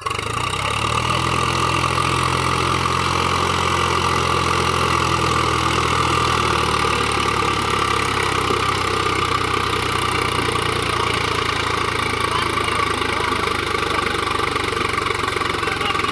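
Swaraj 735 FE tractor's three-cylinder diesel engine running steadily at a low, even speed, with a hiss over it. It comes in suddenly at the start, and its pitch settles slightly within the first few seconds.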